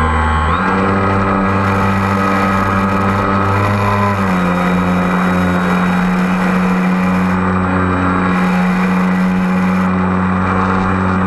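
Multirotor drone's motors and propellers whining steadily, the pitch shifting up and down a couple of times as the motors change speed.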